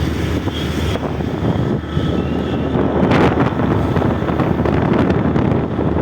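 Wind rushing over the microphone of a moving motorbike, with steady road and vehicle noise underneath; a louder gust about three seconds in.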